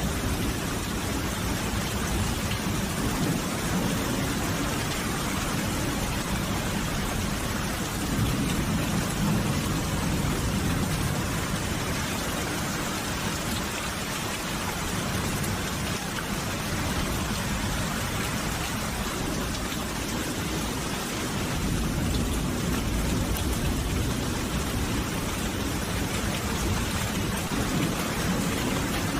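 Steady rain falling as a dense, even hiss. A low rumble swells about eight seconds in and again near the end.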